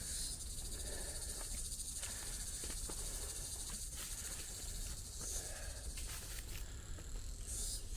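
Insects buzzing in the trailside forest: a steady, high-pitched drone, with a low rumble underneath.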